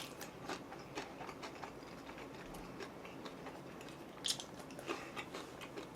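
Faint wet mouth clicks and soft crunches of a person chewing food close to the microphone, scattered irregularly, with a slightly louder crunch about four seconds in.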